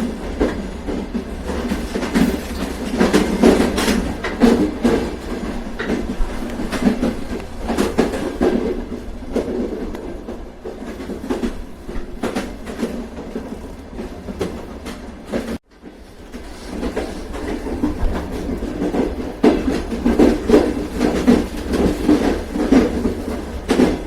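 Train running along the track: a steady rumble with irregular clickety-clack of the wheels over rail joints. It softens in the middle, cuts out for an instant about fifteen seconds in, then builds back up.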